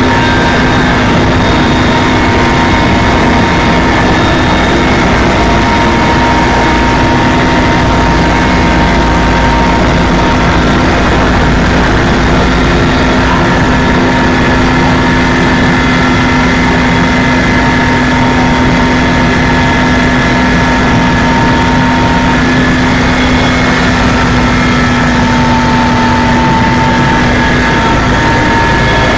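Helicopter in flight: steady, loud engine and rotor noise with several constant whining tones over a low rumble.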